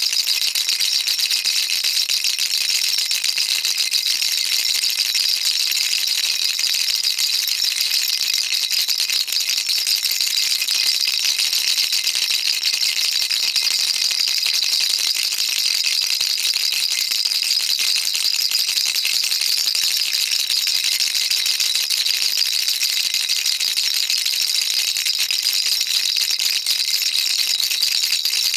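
Baby rattle shaken continuously: a dense, even, high-pitched rattling of many small beads, with no pauses.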